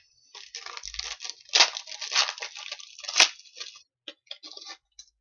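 Foil trading-card pack wrapper being torn open and crinkled, with a sharp snap about three seconds in, followed by a few light ticks of cards being handled.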